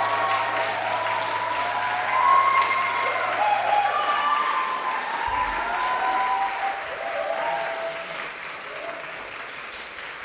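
Audience applauding, with voices calling out over the clapping, after a piece of Korean traditional music. The applause dies down over the last few seconds.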